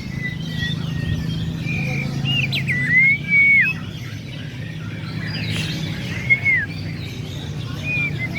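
Several caged songbirds whistling and chirping, with clear arched and falling whistles standing out, the loudest about three seconds in. A steady low hum runs underneath.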